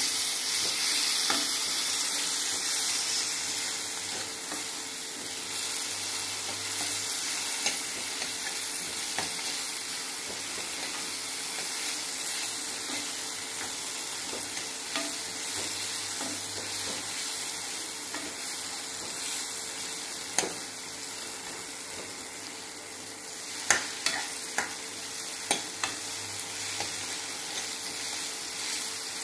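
Chopped tomatoes and green capsicum sizzling in oil in a pan while being stirred with a spatula. The sizzle is loudest in the first few seconds. The spatula scrapes the pan and clicks against it now and then, with a run of sharper taps near the end.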